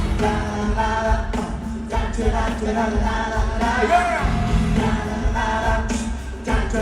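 Live pop concert music: a full band with singing voices over it, in a reverberant stadium.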